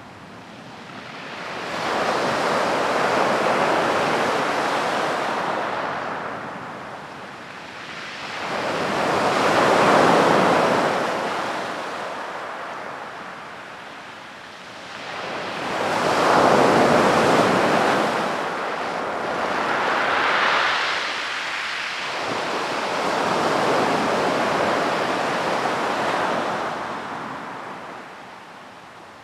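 Sea waves breaking on a sandy beach and washing up the shore, the surf swelling and fading in slow surges, about one every six or seven seconds.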